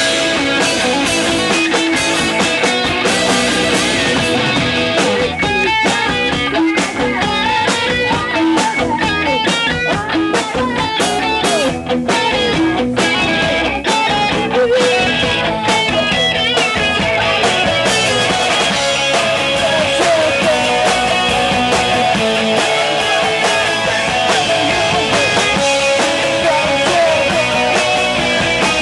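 Rock band music with electric guitars and drums, playing loud and steady.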